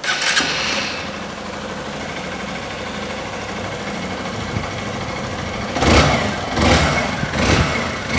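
Honda Bros 150 single-cylinder engine starting abruptly, then idling steadily as a test run after an engine repair for a strange noise. From about six seconds in it is revved in short throttle blips a little under a second apart.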